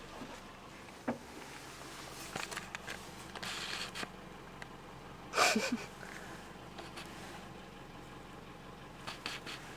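Low steady hum of a car idling, with scattered rustles and small knocks of the camera being handled, and one brief louder noise about five and a half seconds in.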